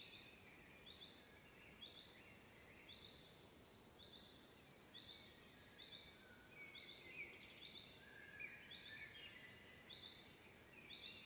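Faint chorus of woodland songbirds singing: one bird repeats a short high note about once a second while others add lower warbling phrases.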